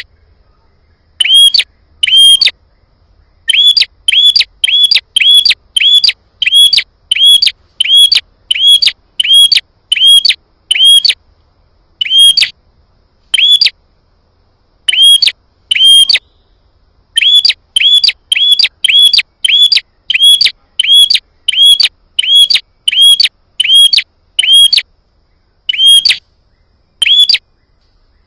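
Prenjak songbird calling: a long series of loud, sharp chirps, each a quick up-and-down note, coming a little over once a second in runs broken by short pauses.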